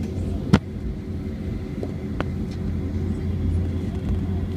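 Airbus A320 cabin noise heard from a rear-row seat: a steady low engine rumble with a hum. A sharp click about half a second in, and a fainter one about two seconds in.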